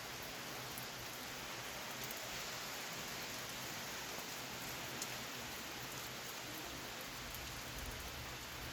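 Steady rain falling during a summer thunderstorm at night: an even hiss with a few sharper drop ticks.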